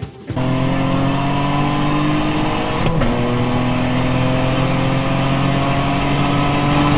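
Car engine accelerating hard: its pitch climbs steadily, drops at a gear change about three seconds in, then climbs again. It cuts in abruptly just after the start.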